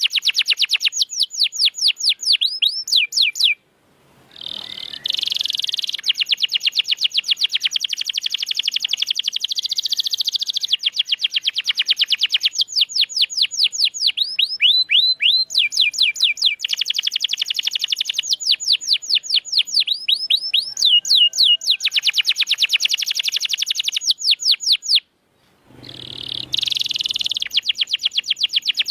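Domestic canary singing a long, loud song of very fast trills and sweeping whistled notes, breaking off briefly twice.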